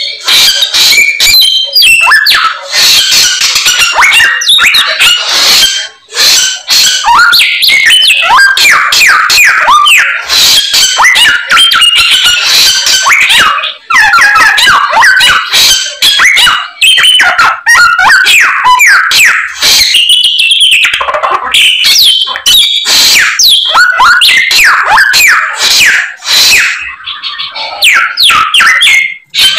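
A samyong songbird singing a fast, near-continuous stream of chirps, whistles and swept notes packed with mimicked calls of other birds (its 'isian'), pausing briefly a few times.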